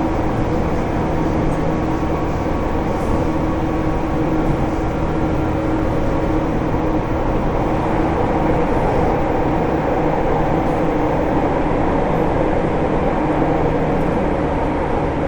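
Interior running sound of a JR East 205-series EMU motor car (MoHa 205-384) with MT61 externally fan-cooled traction motors, running steadily at speed. The rumble of wheels on rail is joined by a faint steady hum.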